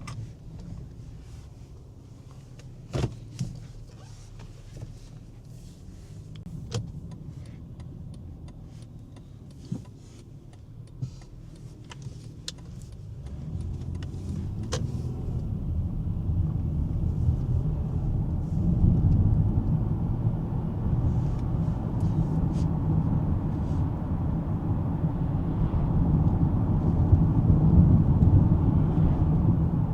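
Cabin sound of a 2005 Lexus ES330 with its 3.3-litre V6. For the first dozen seconds it is fairly quiet, with a few scattered sharp clicks. From about halfway a steady low rumble of engine and road noise builds up and stays as the car gets under way.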